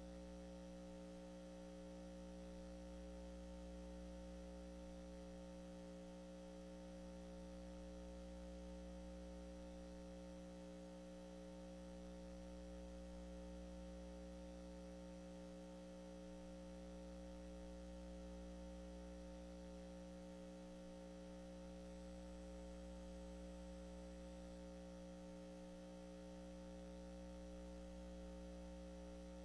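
Faint steady electrical hum: a low drone made of several fixed tones that does not change, with its bottom end swelling and fading every few seconds.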